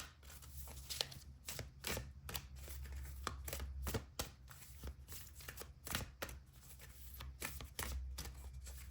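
A deck of oracle cards being shuffled by hand: a long run of irregular flicks and taps.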